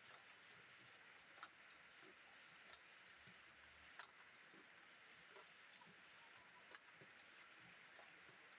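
Faint, steady rain hiss with scattered raindrops ticking, a few sharper drop ticks standing out.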